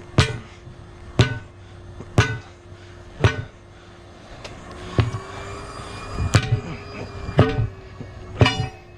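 A hammer striking the bead of a 19.5-inch truck tire to break it off the rim: about eight heavy blows roughly a second apart, with a short pause near the middle. A faint steady hum runs underneath.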